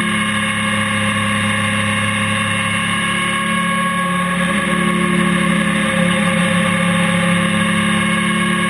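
Honda NC700X motorcycle's 670 cc parallel-twin engine running steadily at cruising speed along an open road, with only slight changes in pitch.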